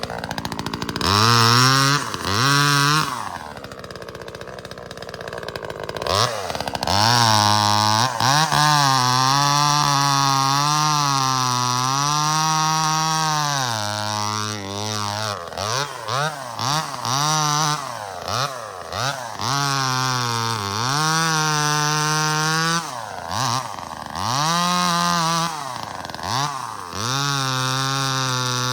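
Neotec NCS2500 25cc two-stroke top-handle chainsaw revving up and down repeatedly, held at full throttle for a few seconds at a time while cutting brush, with a run of short quick throttle blips around the middle.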